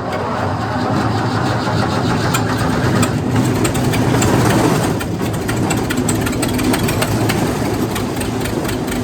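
Wood chipper's spark-ignition gasoline engine running steadily and loud just after starting, with the choke closed, over a constant mechanical clatter.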